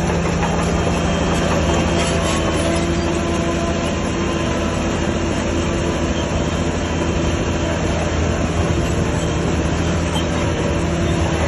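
Crawler bulldozer's diesel engine running steadily under load, with a continuous metallic clatter and squeal from its steel tracks.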